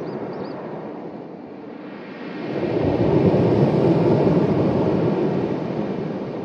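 Sea waves washing onto the shore. The surf dies down, then a wave swells in about two and a half seconds in and slowly fades away.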